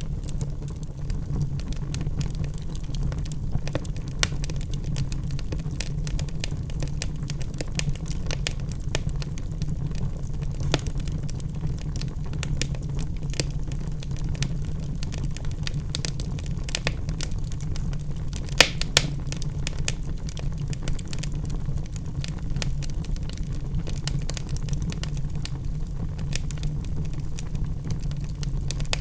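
Wood logs burning in a fireplace: a steady low rumble of flame under constant small crackles and pops, with two sharper pops a little past the middle.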